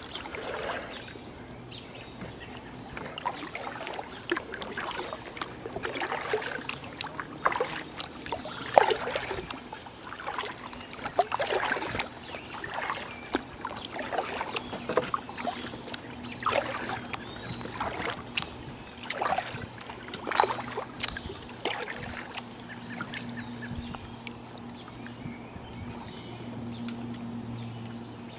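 Kayak paddle strokes: the blades dipping and pulling through the water with splashes and drips, at an irregular pace of a stroke every second or two. A faint steady low hum runs underneath, stronger near the end.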